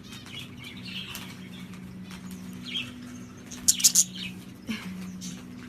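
A pet parrot rustling and flapping its wings, with brief chirps. The loudest part is a quick cluster of sharp sounds a little under four seconds in, over a steady low hum.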